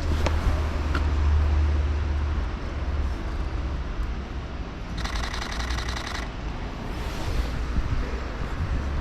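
City street ambience with the low rumble of passing traffic, heaviest in the first few seconds. About five seconds in comes a rapid, even run of clicks lasting just over a second.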